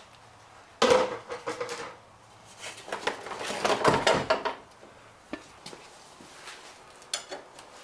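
Metal hand tools clinking and clattering while being picked through and handled, with a few sharp knocks, one of which rings briefly.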